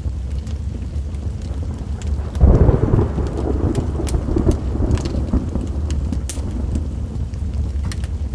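Wood fire crackling with sharp pops over a steady bed of rain. About two and a half seconds in, a roll of thunder rumbles up and fades away over the next few seconds.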